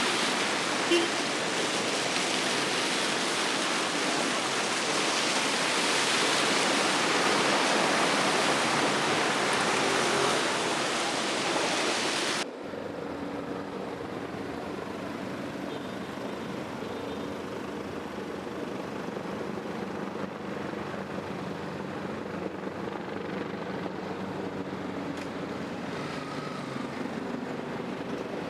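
Steady rushing of water that cuts off abruptly about twelve seconds in, leaving a quieter background with a faint low steady hum.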